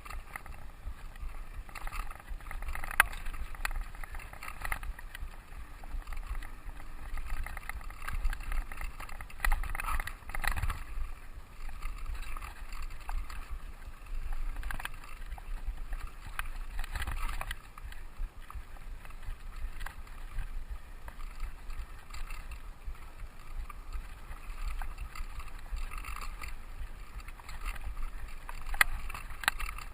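Mountain bike rolling along a dirt trail: steady tyre and wind rumble on the microphone, with frequent short knocks and rattles from the bike over bumps.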